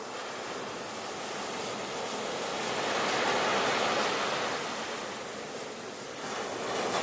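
Ocean surf: a steady wash of breaking waves that swells about halfway through, eases off, then builds again near the end.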